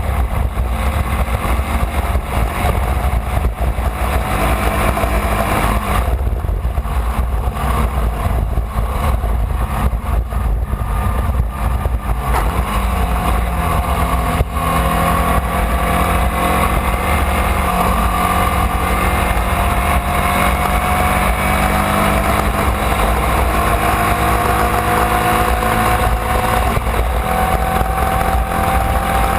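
Formula Vee's air-cooled Volkswagen flat-four engine running under race load, heard onboard, its pitch climbing slowly through the second half as the car accelerates. Steady low wind rumble on the microphone.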